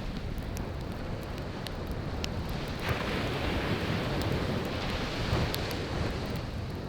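Surf breaking and washing up the beach, swelling about three seconds in, with a wood campfire crackling in small sharp pops over it.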